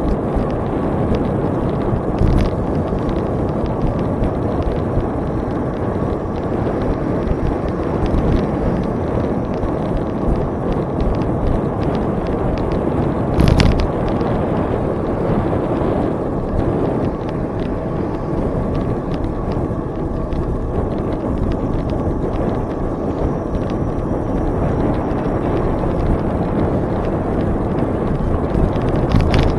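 Steady rush of wind on the microphone and tyre noise from a bicycle riding along a trail, with a few sharp knocks, the loudest about halfway through.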